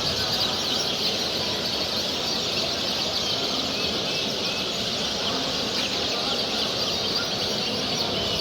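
Many small cage birds chirping and singing at once, a dense unbroken chatter of short high calls, over a low background murmur.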